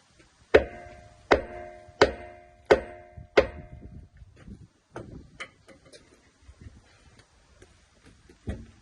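Five ringing hammer blows on steel, about one every 0.7 seconds, followed by lighter clinks and knocks. They are struck to shift a seized truck wheel nut that is solid on.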